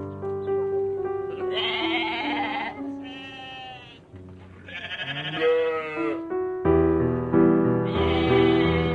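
Sheep bleating about four times, each call a wavering bleat of about a second, over background music with sustained piano-like notes.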